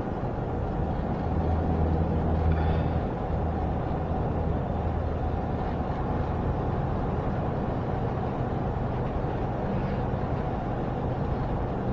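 Semi-truck in motion, heard from the cab: a steady low diesel engine hum over road noise, a little stronger about two seconds in.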